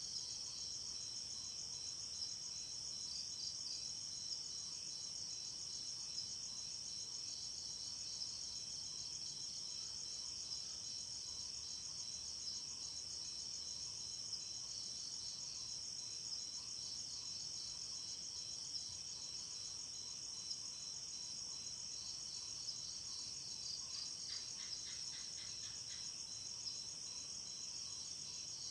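Night insect chorus of crickets, a steady high-pitched trilling with many overlapping callers. About 24 seconds in, a short pulsed call in a lower pitch joins for a couple of seconds.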